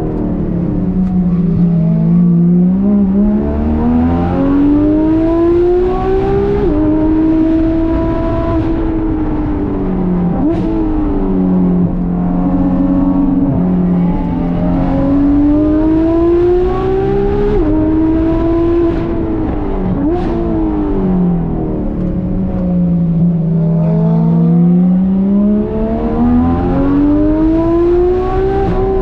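Porsche 991.2 GT3 RS's naturally aspirated flat-six, fitted with Dundon street headers and Crack Pipe exhaust, under way on the road. Its pitch climbs and falls again in long waves several times, with a few sudden jumps in pitch at gear changes.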